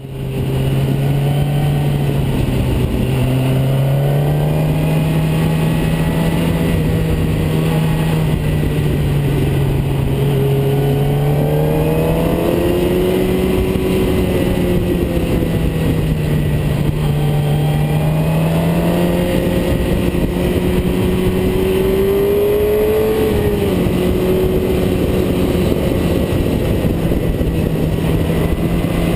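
Car engine running under load, its pitch climbing and then dropping several times as it revs up through the gears.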